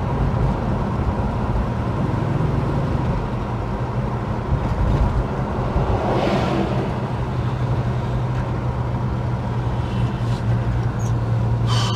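Holden HK on the move, heard from inside the cabin: a steady low engine drone under road noise, with a brief swell of noise about six seconds in.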